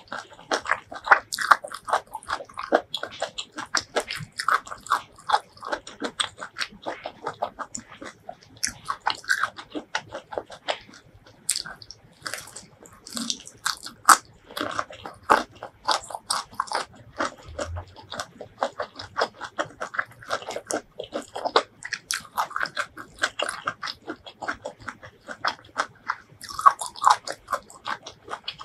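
Close-miked eating: crisp crunching bites and steady chewing of spicy shrimp salad scooped onto fresh green leaves, in many quick irregular crunches.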